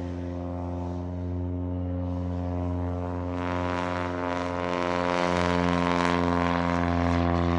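A Cessna 172F's piston engine and propeller at full power on a short takeoff run. It is a steady engine note that grows louder from about three seconds in.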